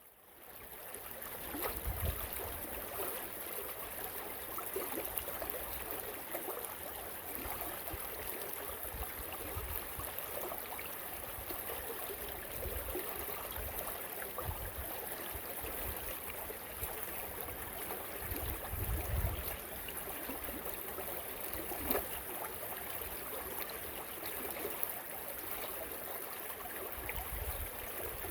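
Creek water running with a steady rushing hiss, and gusts of wind rumbling on the microphone now and then.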